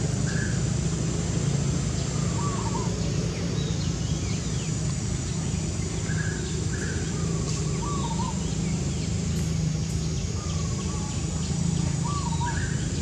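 A bird repeating a short, wavering call every three to four seconds over a steady low background hum.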